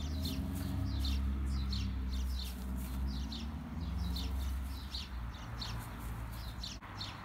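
Small birds chirping over and over in short falling chirps, about two or three a second, over a steady low rumble.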